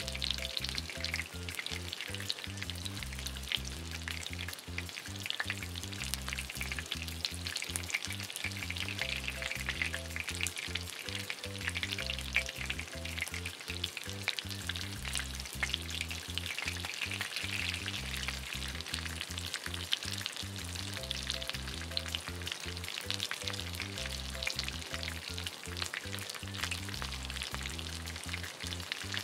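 Cheese-stuffed mashed potato patties frying in shallow oil in a non-stick pan: a steady crackling sizzle.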